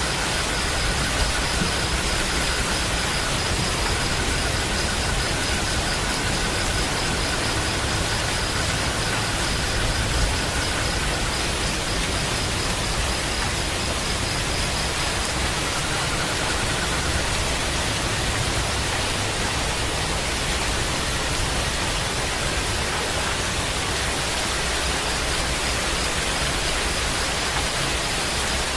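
Steady rain falling, an even hiss with no breaks. A faint high pulsing trill sits over it for much of the first half and again near the end.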